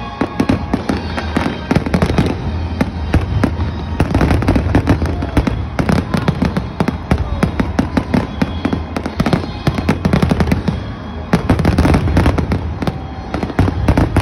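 Aerial fireworks going off in a dense, rapid barrage of bangs and crackles, typical of a show's finale, with music underneath.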